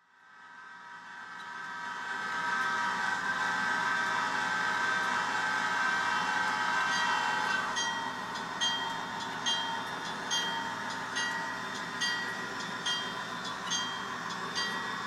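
Diesel locomotive sound from an N scale F40PH's ESU LokSound Micro decoder speaker: the prime mover running under a long horn chord that fades in and holds until about eight seconds in, after which the locomotive bell rings steadily, a little more than once a second.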